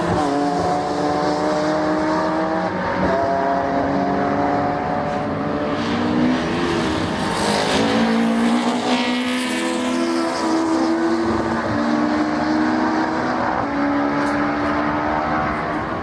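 Racing car engines running hard, their pitch climbing and then stepping down several times, with more than one engine note heard at once.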